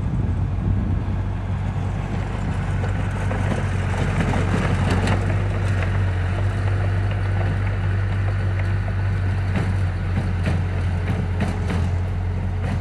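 Heavy construction machine's diesel engine running steadily with a deep drone, with metal clanks and rattles, more frequent in the last few seconds.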